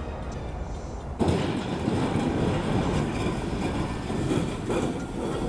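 A train passing close by: a low rumble, then about a second in a sudden loud rush of rail and wheel noise that carries on.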